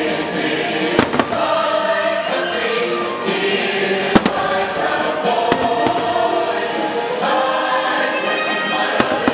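A choir singing over music from a fireworks show's soundtrack, with firework bursts banging through it: a bang about a second in, the loudest pair just after four seconds, another about five and a half seconds in and one near the end.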